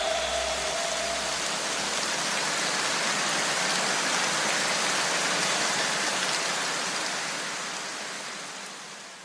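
Steady rain falling, a dense even hiss that fades away over the last couple of seconds.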